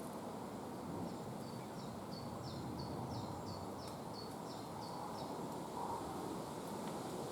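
A small songbird singing a series of about a dozen short, high, repeated notes, about three a second, over a steady outdoor background rush.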